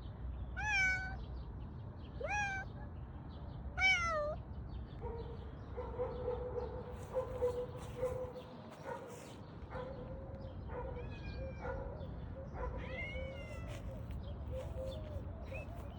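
A cat meowing: three loud meows, each falling in pitch, about a second and a half apart in the first four seconds, then a few fainter, shorter calls later on.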